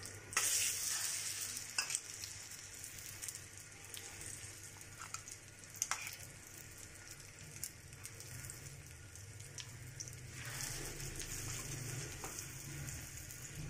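Egg-dipped shami kebabs sizzling in shallow oil on a tawa as a steady frying hiss. The sizzle is louder for about a second near the start, and a few light clicks come through.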